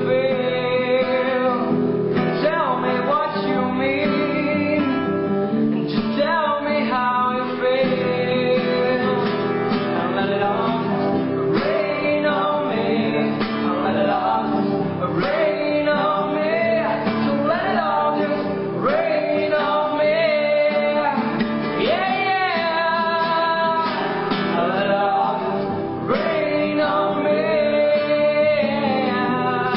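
Acoustic guitar accompaniment with a voice singing a gliding melody over it.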